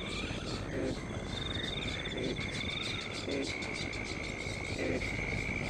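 A chorus of insects and frogs. A high pulsed insect trill starts and stops over a steadier high tone, and short low croaks come roughly once a second.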